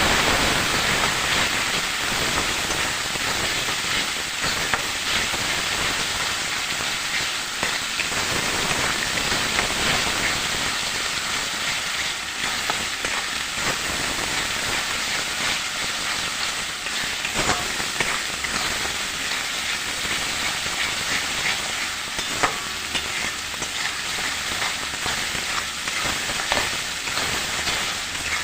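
Masala of ginger-garlic paste and ground spices sizzling in hot oil in a kadai, louder in the first second. It is stirred with a spatula that clicks against the pan now and then.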